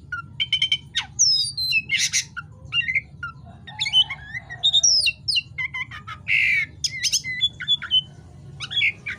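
Oriental magpie-robin (kacer) singing in full voice: a fast, varied stream of clear whistles, gliding notes, rapid trills and harsh notes, with a steady low hum underneath.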